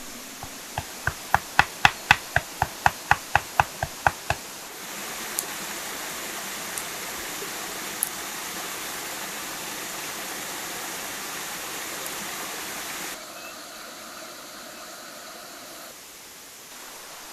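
A quick, even run of about sixteen sharp knocks with a ringing tone, about four a second, stopping after about four seconds. Then a steady rushing noise like running water, dropping in level twice near the end.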